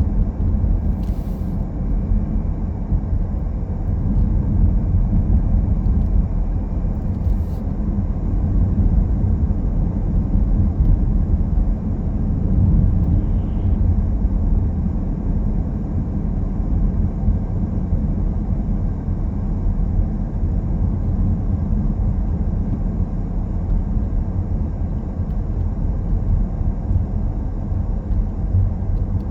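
A car driving, a steady low rumble of road and engine noise. Two faint brief ticks come about a second in and around seven seconds.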